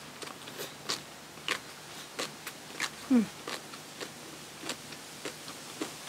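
A person chewing and crunching food close to the microphone: irregular crisp crunches and mouth clicks, about two a second. A short falling hum comes about halfway through.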